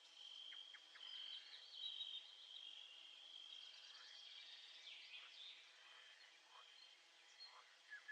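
Faint nature ambience: insects trilling steadily on one high pitch, with scattered short chirping calls over it.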